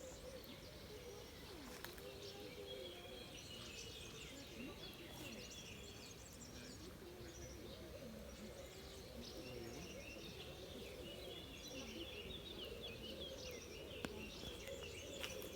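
Small birds chirping and singing, many short calls overlapping, over a faint steady murmur of outdoor background noise.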